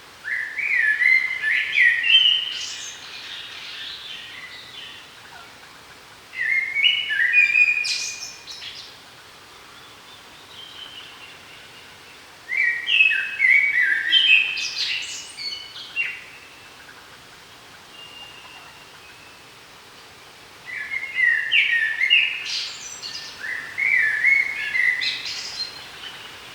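A songbird singing loud phrases of quick stepping notes, each lasting two to three seconds and ending in a brief high flourish, with pauses of several seconds between them, over a faint steady forest background.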